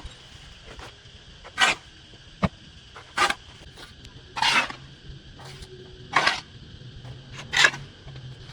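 Overgrown grass and weeds being cut or torn by hand: a string of short swishing, rustling strokes, about one every second or so, each sudden and brief.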